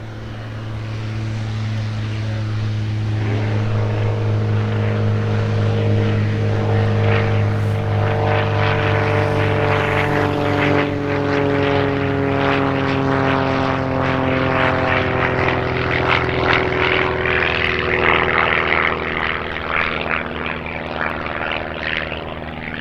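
Light propeller aircraft passing close. The engine note grows louder, holds, then slowly drops in pitch as it goes by and fades near the end.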